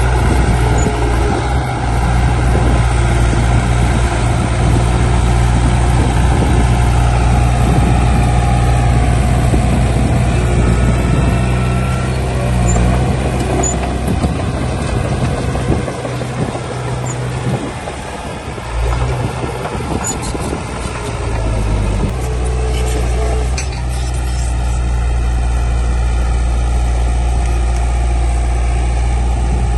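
Heavy diesel earthmoving machinery running steadily under a deep engine drone. The lowest part of the engine sound drops away for a few seconds past the middle, then comes back as strong as before.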